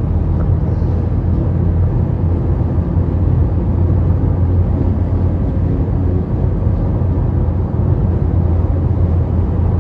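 Steady low rumble of a car moving at highway speed: road and engine noise, even throughout.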